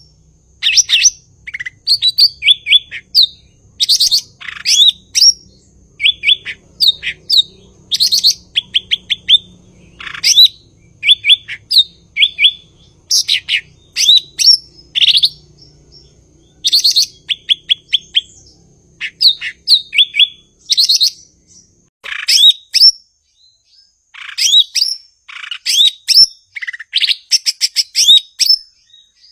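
Cucak ijo (green leafbird) singing a fast, varied song of short chirps, trills and whistled notes in quick bursts, with a short lull about three-quarters of the way through.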